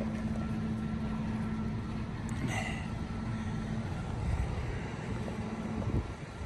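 A motor vehicle engine running steadily with a low rumble, dying away near the end with a knock. A short high chirp comes about two and a half seconds in.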